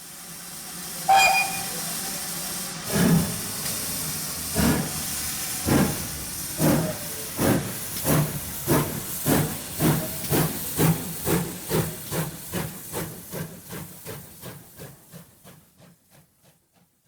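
Steam locomotive sound effect: a steady hiss of steam, a short blast of the whistle about a second in, then exhaust chuffs that start slow and come steadily faster as the engine gets under way, fading out near the end.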